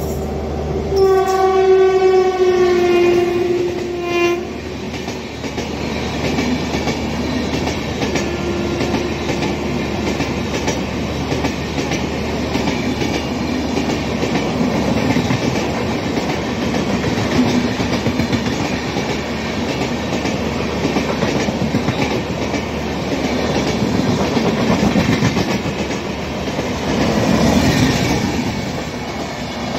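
The 12105 Vidarbha Superfast Express passing on the next track. Its locomotive horn sounds for about three seconds, dropping slightly in pitch as it goes by, with a fainter short note around eight seconds in. The steady rumble and clatter of its coach wheels on the rails follows.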